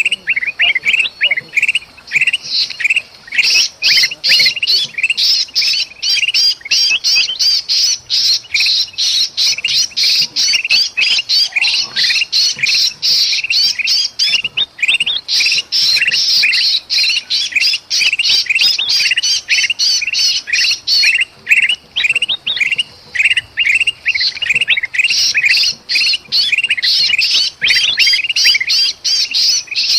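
Kutilang bulbuls giving agitated calls: a dense, quick run of harsh chirps with only brief gaps, mixed with the distress calls of a caught bulbul.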